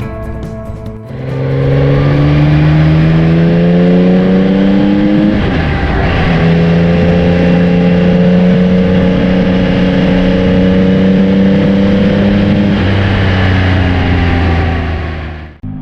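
Yamaha Tracer 9 motorcycle's 890 cc inline three-cylinder engine accelerating, its pitch rising through one gear, dropping with a gear change about five seconds in, then pulling steadily higher through the next gear, with wind noise. A second of background music comes before it, and it cuts off suddenly just before the end.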